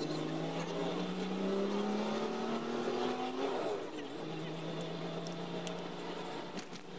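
Car engine heard from inside the cabin while driving, rising steadily in pitch as the car accelerates for about three and a half seconds, then dropping at a gear change and running steady at a lower pitch.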